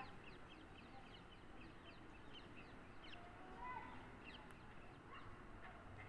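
Faint birdsong: small birds chirping in many short, high, falling notes, with a lower call about three and a half seconds in.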